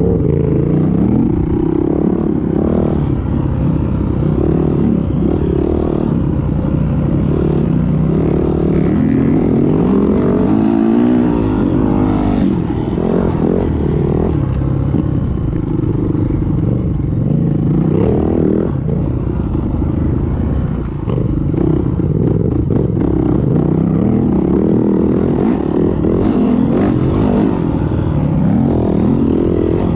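Yamaha WR450F dirt bike's single-cylinder four-stroke engine being ridden hard off-road, revving up and down again and again through the throttle and gear changes.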